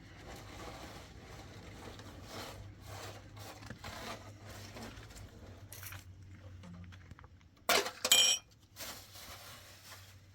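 Quiet handling and shuffling over a steady low hum, then a brief, sharp metallic clatter about eight seconds in, like metal dishes or utensils knocking together.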